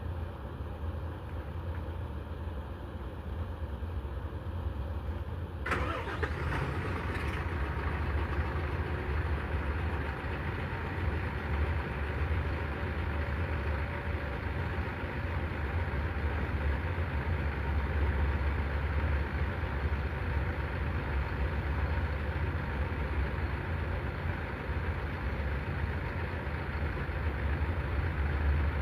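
Isuzu FVR diesel truck engine running with a steady low rumble. About six seconds in, a second sound starts suddenly and carries on, making the engine noise fuller and louder in the middle range.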